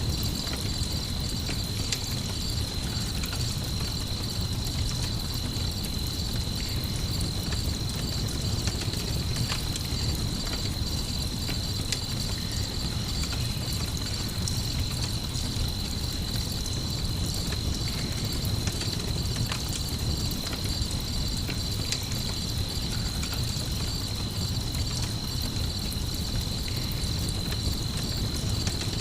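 Layered night ambience: crickets chirping in a steady high trill over the low, even sound of a campfire burning, with occasional faint crackles.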